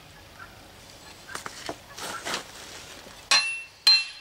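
A tool tapping on a metal part of a Briggs & Stratton small engine to loosen it: two sharp metal-on-metal taps about three and four seconds in, each leaving a short ringing tone. Softer scraping and handling sounds come before them.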